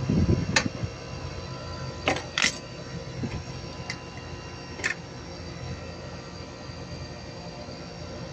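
Floor-standing air conditioner running with a steady hum, with a low thump at the start and five sharp clicks in the first five seconds.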